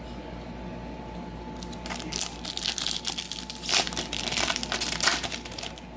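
Foil trading-card pack wrapper being torn open and crinkled by hand, a dense crackling that starts about two seconds in and stops just before the end.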